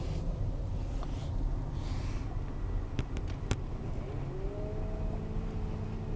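Car cabin noise while riding: a steady low rumble of engine and road, a couple of sharp clicks about three seconds in, and a whine that rises about four seconds in and then holds steady.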